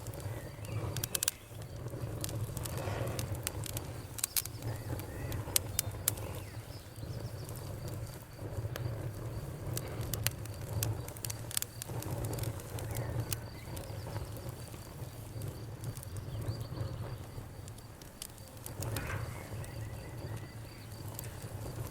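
Wood campfire burning with irregular sharp crackles and pops over a low, steady rumble of the flames.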